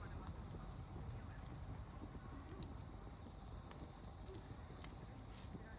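Crickets chirping in an even pulsing rhythm, with a higher trill coming and going, over a low haze and a few faint pops from a wood campfire.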